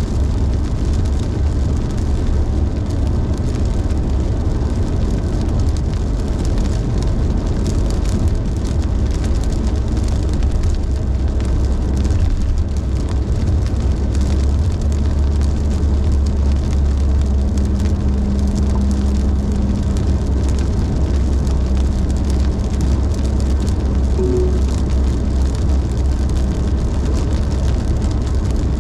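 Steady road noise inside a car at highway speed: a deep, even rumble of tyres and engine, with a faint hum rising briefly above it partway through.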